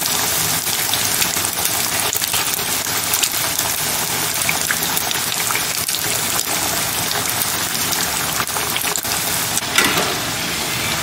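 Breadcrumb-coated vegetable burger patties frying in hot oil in a kadai: a steady sizzle with dense crackling.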